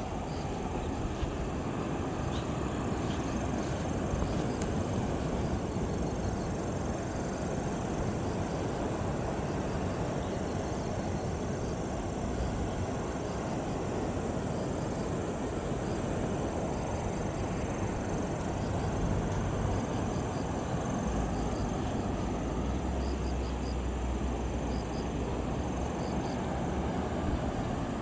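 Steady rush of wind and sea surf, heaviest in the low range, swelling to a deeper rumble near the end, with faint high chirps now and then.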